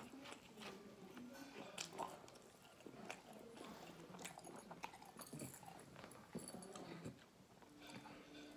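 Faint, close chewing of a ham sub sandwich with the mouth closed: soft, irregular wet mouth clicks and smacks.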